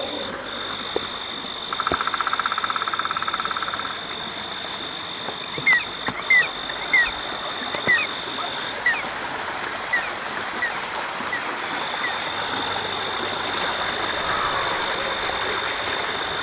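Night chorus in monsoon rain: insects keep up a steady high-pitched ring, broken once briefly. A frog gives a rapid pulsed trill for about two seconds. Then come about ten short chirps, one every half-second or so, fading away.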